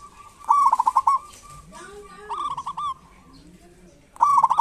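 Zebra dove calling in three short phrases of rapid, rolling notes, each about half a second to three-quarters of a second long and about two seconds apart.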